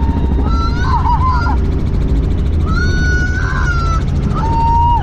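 Helicopter in flight, its engine and rotor making a steady low rumble. A high, wavering pitched line glides over the rumble, briefly around a second in and again from about three seconds in.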